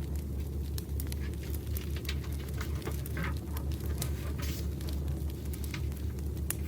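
Campfire crackling: a steady low rumble of burning wood with frequent sharp, irregular pops and snaps.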